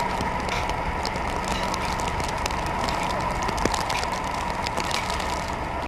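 Steady vehicle running noise with a hum and scattered light clicks, cut off abruptly at the end.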